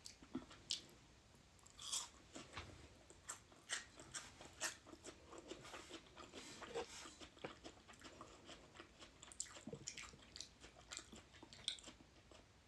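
A person chewing food, faint and irregular, with many small wet clicks and smacks of the mouth.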